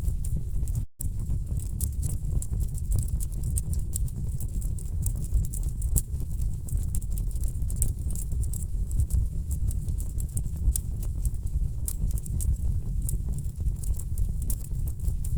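Wood fire burning in a fireplace: a steady low rumble of flames with dense, irregular crackles and pops from the burning logs. The sound cuts out for a split second about a second in.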